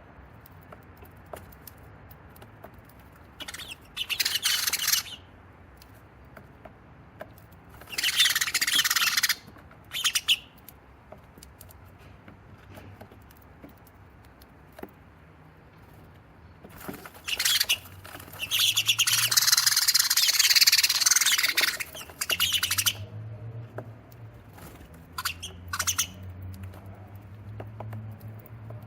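Sparrows chattering in loud, harsh bursts as they squabble: several short outbursts and one long one of about five seconds, with quieter gaps between.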